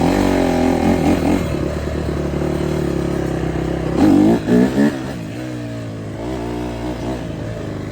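Dirt bike engine running and revving, with three short, sharp revs about four seconds in, then running more quietly and steadily.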